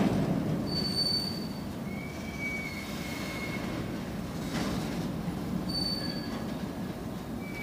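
Indian Railways BCNA covered freight wagons rolling past on the track, a steady rumble with short high-pitched wheel squeals several times and a faint knock about halfway through.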